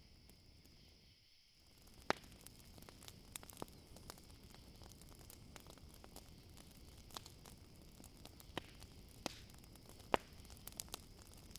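Campfire crackling quietly, with sharp irregular pops from the burning wood over a low steady hiss. A steady high-pitched chirring of crickets runs underneath.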